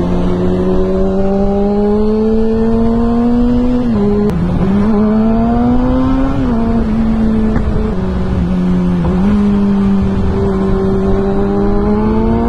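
Kawasaki ZX-6R inline-four sport bike with a Two Brothers full exhaust accelerating hard, recorded from the rider's seat. The engine note climbs and drops sharply at three upshifts, about four, six and a half and nine seconds in, over a low wind rush.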